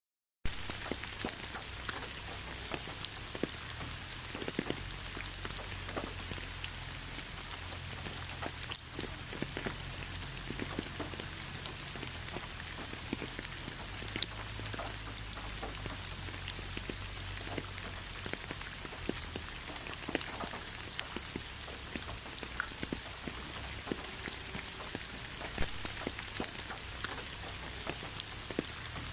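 Steady rain falling on a surface, with many individual drops ticking, starting abruptly a moment in after a brief silence. A low rumble runs underneath.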